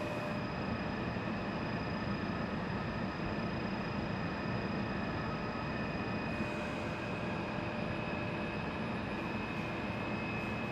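Steady industrial machinery noise from a hot-dip galvanizing steel line, a dense even rumble with several constant whining tones on top.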